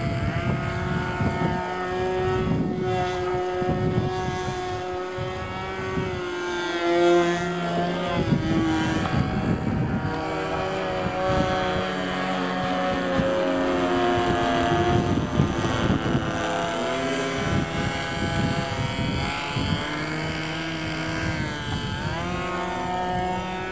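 Thunder Tiger 42 two-stroke glow engine of a radio-controlled model airplane running in flight. Its buzzing pitch rises and falls as the plane passes overhead and changes throttle.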